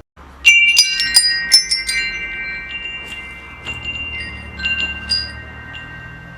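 Metal wind chimes struck in a quick flurry of clinks about half a second in, then a few scattered strikes, their clear tones ringing on and slowly fading over a low steady hum.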